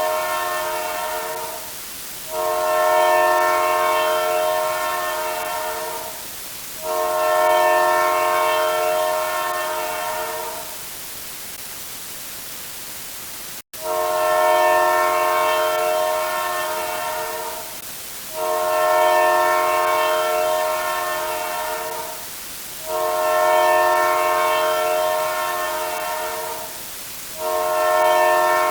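Train horn sounding a steady multi-note chord in repeated blasts of about four seconds each, each fading slightly, separated by short gaps. A longer pause and a brief cut come near the middle.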